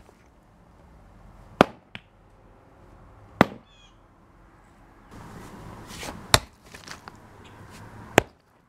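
A sledgehammer striking a concrete slab four times, sharp single blows a couple of seconds apart, breaking up the cracked concrete, with small pieces clattering between blows.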